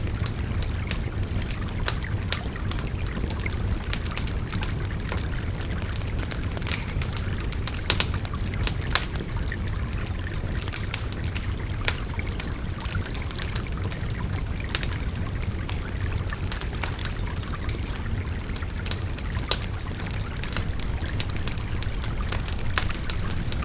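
Wood bonfire crackling with frequent sharp pops, layered over the steady babbling of a river.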